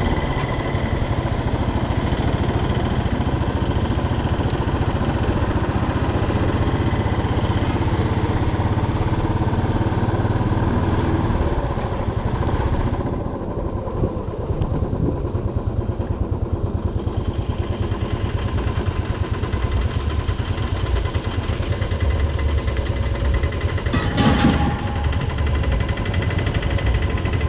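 Motorcycle engine running steadily while riding, with one sharp knock about 24 seconds in.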